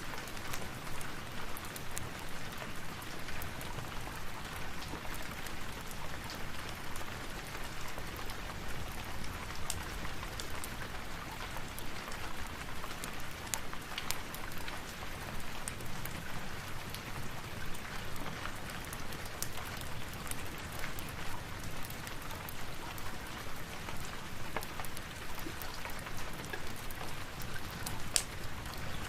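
Steady rain falling, with scattered sharp clicks of drops or crackles throughout.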